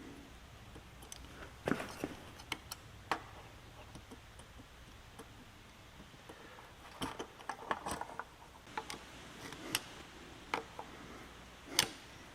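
Scattered small clicks and taps of carburetor parts being fitted and fastened together by hand, with a few quick clusters of clicks about two-thirds of the way through.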